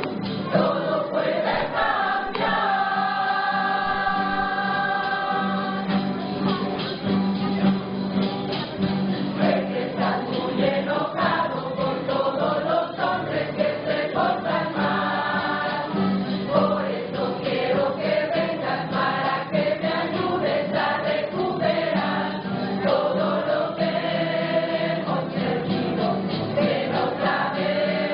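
A choir singing a song in parts, with long held notes over a steady low accompanying tone.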